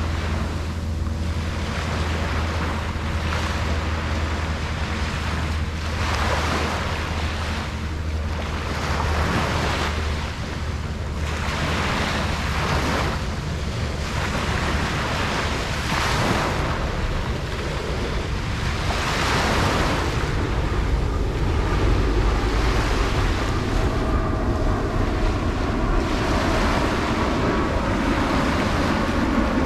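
Ocean waves breaking and washing up on a beach, the surf swelling and easing every second or two, with wind buffeting the microphone. A low rumble builds in the last third.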